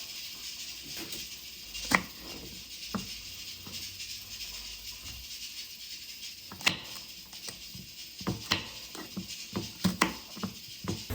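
Irregular light clicks and taps over a steady hiss, sharpest about two seconds in and several more in the last few seconds.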